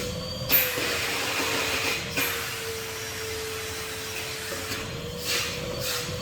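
Henry HVR200 620 W vacuum cleaner running with a steady whine and rushing air, the motor's pitch wavering slightly as the nozzle works the floor. A few short knocks of the hard nozzle or tube against things, the loudest about half a second in, others near 2 and 5 seconds.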